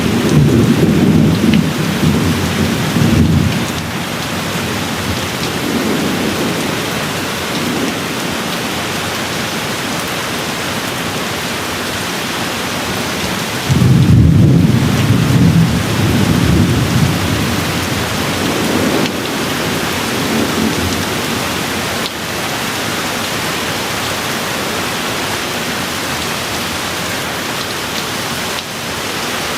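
Steady rain falling, with low rolls of distant thunder: one rumble fading out a few seconds in, and a stronger roll coming in suddenly about halfway through and dying away over several seconds.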